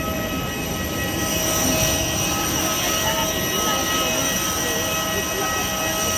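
Steady jet airliner noise: an even roar with several constant high whining tones over it.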